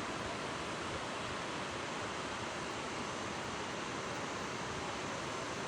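Fast-flowing floodwater of a river in spate, rushing with a steady, even noise.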